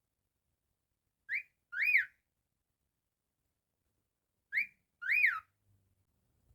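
Cockatiel whistling a two-note phrase twice, about three seconds apart: a short rising chirp, then a longer note that rises and falls.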